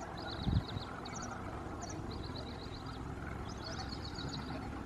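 Low steady rumble of an electric-locomotive-hauled express train approaching at a distance, with repeated bursts of rapid high-pitched chirping trills over it. A brief low thump about half a second in.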